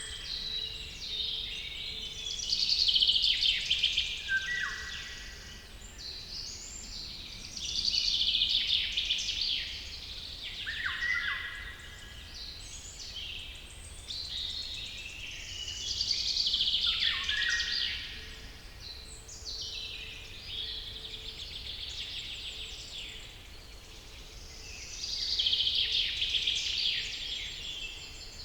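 Songbirds singing in a forest chorus: high, twittering song phrases over a steady background, with a louder burst of song every six to nine seconds.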